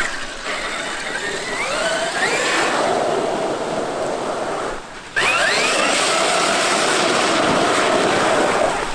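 Traxxas X-Maxx RC truck driving, its electric motor whining and rising in pitch as it speeds up, over a steady rushing noise. The sound drops away briefly just before five seconds in, then comes back louder with another rising whine.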